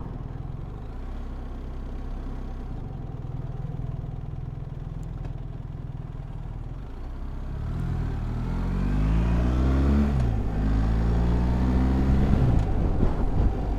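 BMW R1300GS boxer-twin engine running steadily at low revs, then accelerating from about halfway, with the pitch rising and dropping at a gear change, then rising again and dropping at another change near the end.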